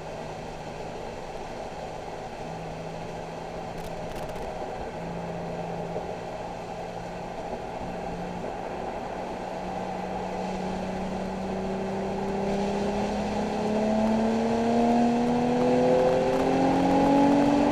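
Nissan 370Z's 3.7-litre V6 running at a steady pitch, then accelerating, its pitch rising and the sound growing louder over the last several seconds.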